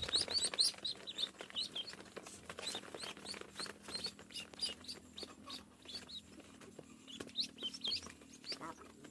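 A group of ducklings peeping: a constant run of short, high chirps, several a second.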